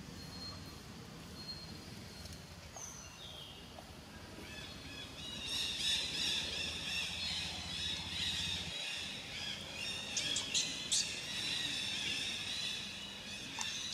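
Birds chirping, sparse at first and turning into a busier, louder chorus about five seconds in, with a few short sharp chirps a few seconds before the end.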